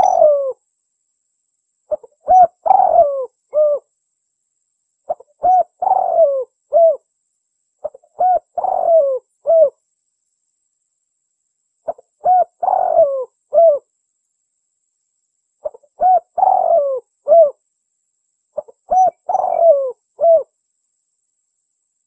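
Spotted dove (tekukur) singing its cooing song, the two-"kuk" type of a contest bird: each phrase is a short coo, a louder rolling drawn-out coo and a closing coo. The phrase repeats about six times, roughly every three seconds, with clean silence between.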